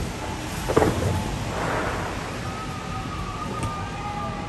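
Fireworks bursting unseen in fog: a sharp bang about a second in, followed by a rumble and crackle over a steady outdoor din. A thin steady tone comes in about halfway through.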